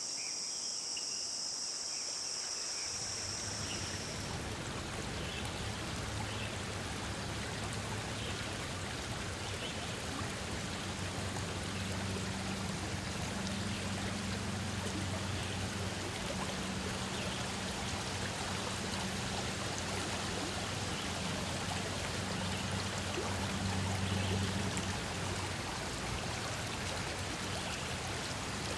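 Crickets chirring high and steady, cut off about four seconds in. A flowing stream's steady rush of water follows, with a faint low hum underneath.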